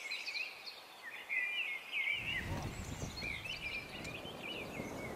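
Small birds singing in quick, high chirping and warbling phrases, with a low rumbling noise coming in about two seconds in.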